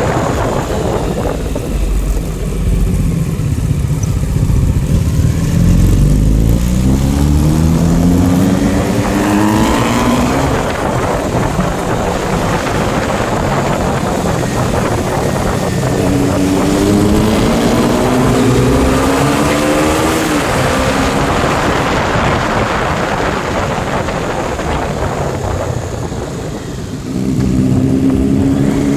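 Motorcycle engines running and pulling hard, with the engine pitch climbing in three long rising sweeps as they accelerate.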